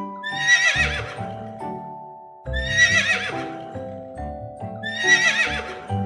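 Horse whinnying three times, each a wavering high neigh, over light children's background music.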